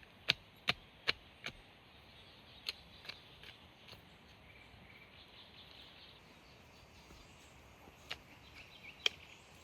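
A series of sharp knocks, struck at a steady pace of about two and a half a second in two short runs, with two more strikes near the end.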